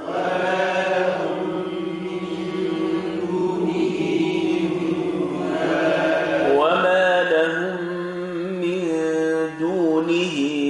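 Men's voices reciting the Quran in melodic tajweed chant, drawing out long held notes that glide in pitch.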